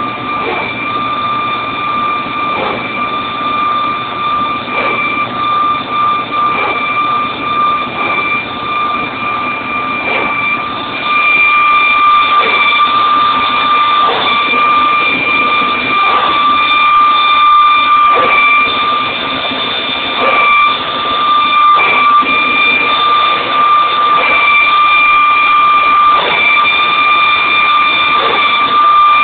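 Airbus A320 hydraulic power transfer unit (PTU) running in its typical bark: a steady high whine broken by irregular pulsing knocks. It gets louder about eleven seconds in.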